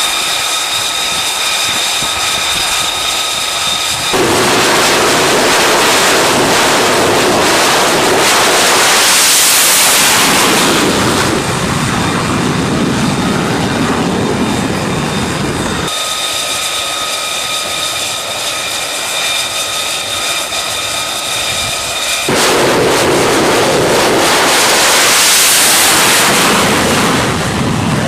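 F-35 fighter jet engine: a steady high turbine whine that cuts abruptly into a loud, broad jet roar, which swells to a peak and eases off. The sequence happens twice.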